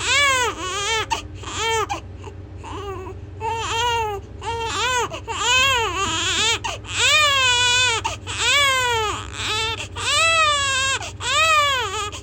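A baby crying loudly: high-pitched wails that rise and fall, one after another about once a second, with brief catches of breath between, softening for a moment around two to three seconds in.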